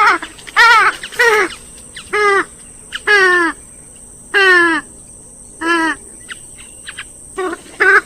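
Gallinules, the swamphen and moorhen group of rails, calling: about ten loud, harsh calls, each a short note sliding down in pitch, several coming in quick pairs, with a few short faint notes about six to seven seconds in.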